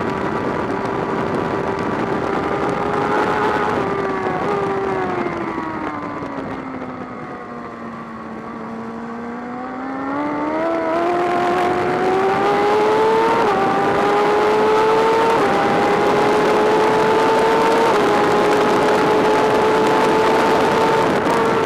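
BMW S1000RR inline-four sport bike engine heard onboard at track speed: it holds high revs, falls away as the bike slows for a corner about halfway through, then climbs back up in steps as it accelerates through the gears, with wind rushing over the microphone.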